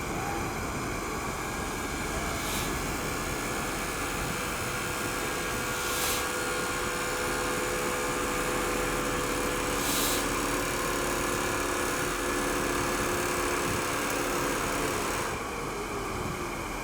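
1967 Lincoln Continental's 462 V8 running steadily with a steady hum, over a wide hiss; the hiss drops away about fifteen seconds in.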